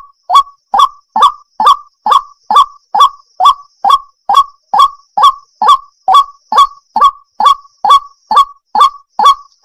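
A waterhen (jal murgi) calling over and over: short, loud, honking notes at a steady pace of a little over two a second.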